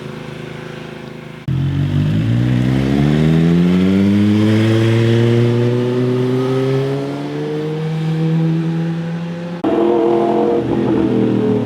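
Motorcycle engine accelerating hard, its pitch climbing steadily for several seconds before levelling off. The sound changes abruptly twice, about a second and a half in and near the end, to other engines running at a steady pitch.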